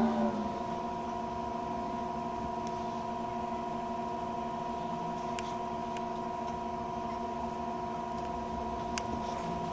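A steady electrical hum made of several fixed tones, with a few faint clicks and one sharp click about nine seconds in.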